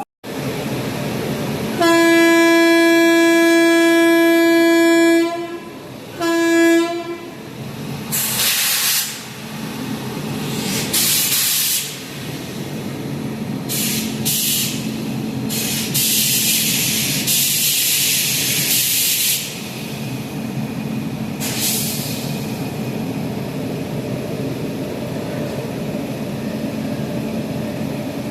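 Indian Railways train horn: one long blast of about three seconds, then a short second blast. After it come several separate bursts of hissing over the steady rumble of the running train.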